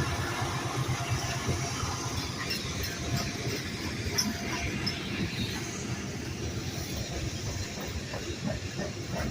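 Norfolk Southern diesel freight train passing close by while climbing a grade, locomotives working under load with a steady low drone and rattling wheel and rail noise.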